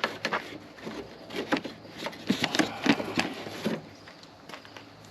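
Hands working on the washer hose and its fittings: a run of sharp clicks, knocks and rattles for about four seconds, then quieter.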